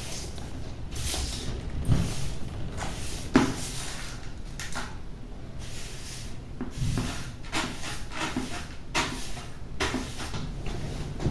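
Household handling sounds: irregular knocks and clicks with rustling in between, the sharpest knocks about two seconds and three and a half seconds in.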